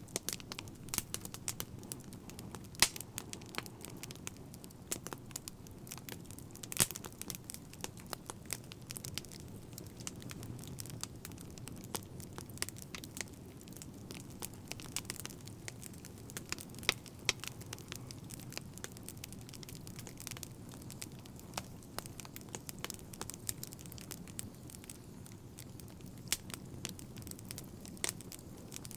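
Fire crackling: irregular sharp pops and snaps over a low, steady rush of burning.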